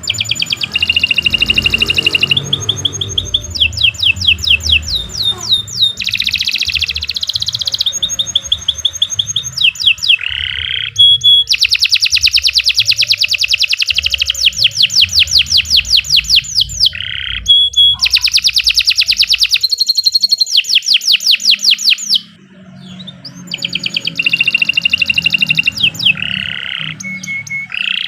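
A domestic canary singing a long, almost unbroken song of rapid trills and rolling runs of fast repeated notes, changing from one phrase to the next every few seconds. It breaks off briefly about three-quarters of the way through, then carries on.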